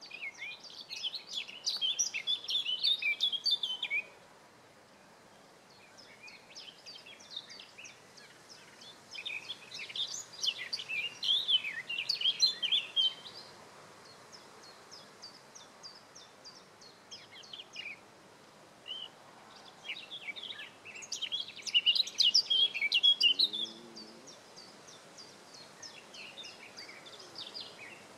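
Songbirds singing: three loud bursts of rapid, twittering song several seconds apart, over a steady background of short high chirps repeated from other birds.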